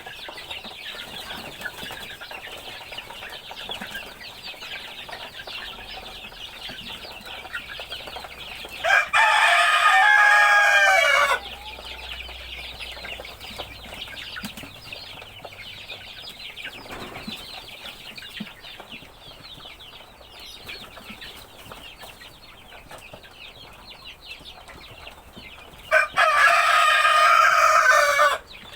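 A flock of ayam kampung (Indonesian village chickens) clucking and chattering steadily, with a rooster crowing loudly twice: once about nine seconds in and again near the end, each crow lasting a couple of seconds.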